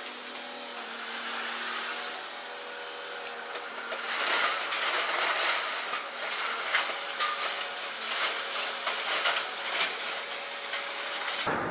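Building demolition: a machine hums steadily while debris crunches and clatters, the crunching growing dense and irregular from about four seconds in.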